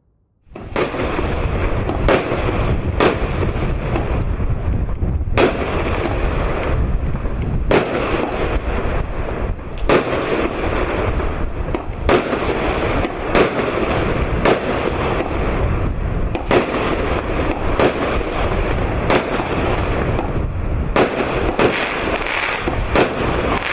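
P7461 16-shot consumer firework cake firing in sequence: sharp shots and bursts every one to two seconds, starting about half a second in, over a dense, continuous noise.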